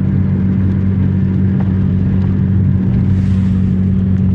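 Steady drone of a car's engine and tyres heard from inside the cabin while driving, a constant low hum with no change.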